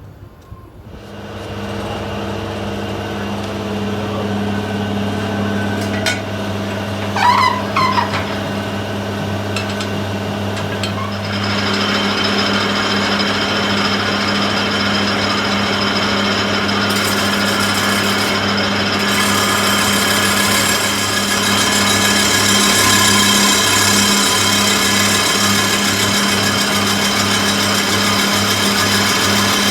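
Electric power tool motor running steadily, getting louder about eleven seconds in, with a brief wavering squeal near the start.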